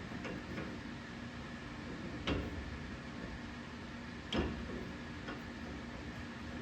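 Hand tools working on a truck's rear suspension: a few light metal clicks, then two sharper clanks about two seconds apart, over a faint steady hum.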